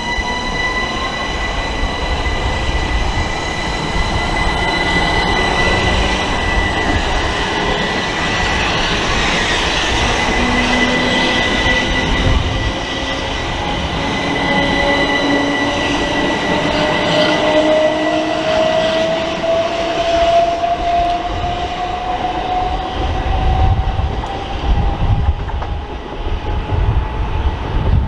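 Electric multiple unit pulling away from a station platform. Its traction motors give a whine that rises slowly in pitch as it gathers speed, over a steady high whistle and the rumble of the train on the rails.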